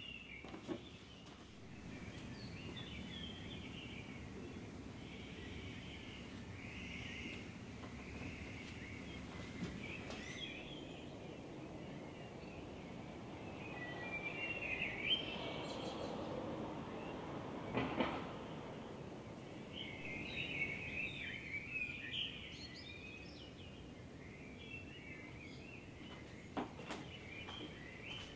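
Birds chirping and singing on and off over a steady low background noise, with a few sharp knocks.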